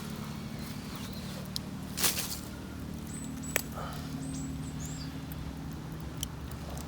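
Wood campfire with a few sharp crackling pops over a steady low hum, a brief louder scrape about two seconds in, and a few short high bird chirps around the middle.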